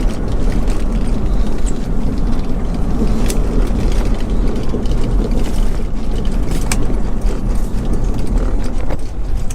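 Steady road and engine rumble inside a moving car's cabin, with a couple of sharp clicks about three and seven seconds in.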